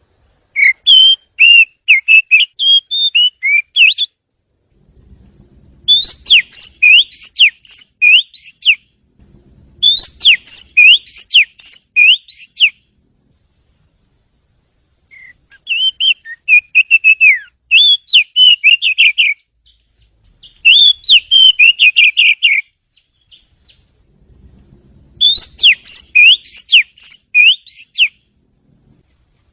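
Oriental magpie-robin (kacer) singing: six bouts of quick, varied whistled notes that sweep up and down, each bout lasting two to four seconds with short pauses between.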